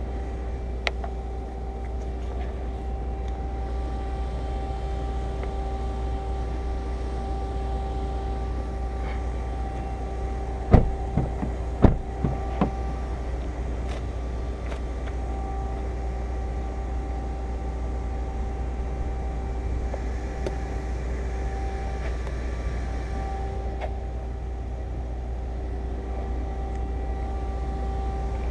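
A steady mechanical hum with a constant tone, from a motor or engine running; two sharp knocks near the middle, a second apart, with a few lighter clicks after them.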